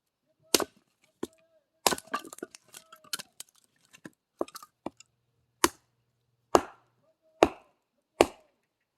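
Axe chopping wood into short pieces: sharp chops with cracking and splintering, a cluster of smaller cracks early and then four strong strokes about a second apart.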